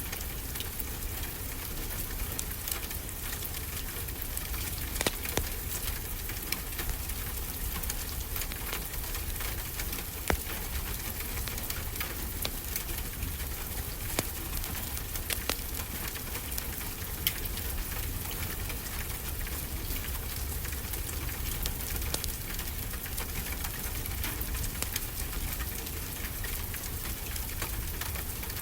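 Fireplace crackling with irregular sharp pops, over a steady wash of ocean surf.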